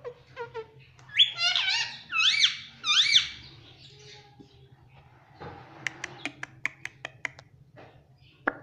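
Ringneck parrot calling: three loud calls, each rising and falling in pitch, then a run of short clicks and chirps near the end.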